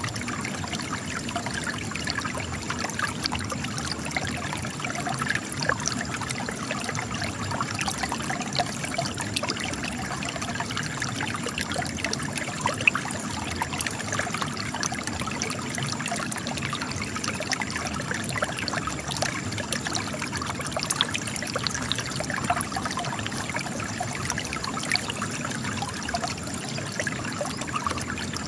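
Spring water trickling and splashing as it runs out of cracks in rock, a steady babble of small droplets and rivulets.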